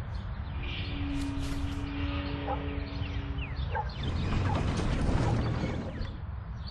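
Sound effects of a train disaster from an animated video: a low held tone for about three seconds, then a louder rumbling, clattering stretch with creaks.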